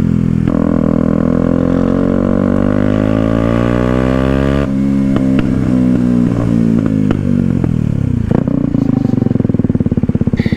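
Kawasaki Ninja 125's single-cylinder four-stroke engine revving up steadily in gear, dropping in pitch at a gear change about four and a half seconds in and pulling again. Near the end it winds down to a slow, low-rpm putter, with scattered short crackles as it decelerates.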